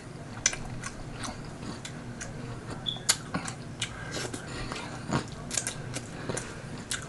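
Close-miked chewing and mouth sounds of a man eating a chitterlings boil by hand: irregular wet smacks and clicks, with a louder one about five seconds in.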